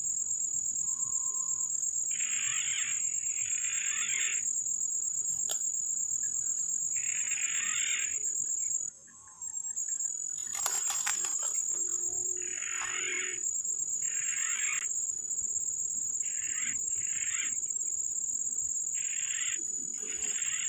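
Steady high-pitched insect chorus of crickets or cicadas, with short rasping calls repeating every second or two over it and a brief rustle about ten seconds in.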